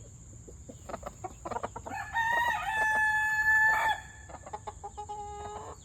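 A rooster crows once, a long call held at a steady pitch for about two seconds, starting about two seconds in. Hens cluck before it, and a fainter call follows near the end.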